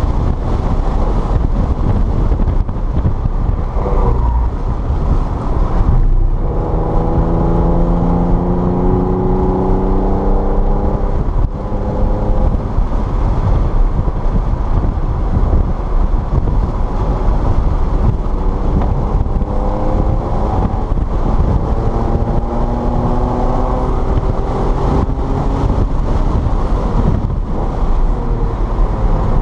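Car engine revving up under acceleration twice: the pitch climbs from about six seconds in, breaks off abruptly near the middle as for a gear change, then climbs again later. A constant loud rumble of road and wind noise runs underneath.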